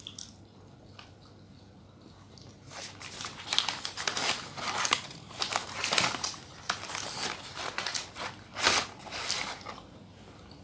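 Close-miked mukbang eating and food-handling noise: a dense run of crisp crackling and crunching that starts about three seconds in and dies away near the end.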